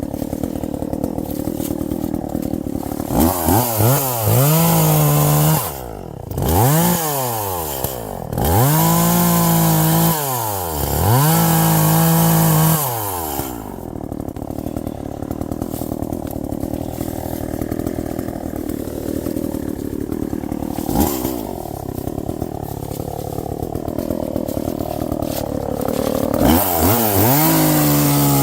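Two-stroke gas chainsaw revved up to full speed in four spells over about ten seconds, its pitch sweeping up and down between them. It then drops back to idle for about twelve seconds and revs up again near the end.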